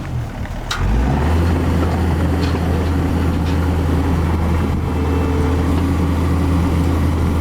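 Car engine idling steadily, a deep even hum.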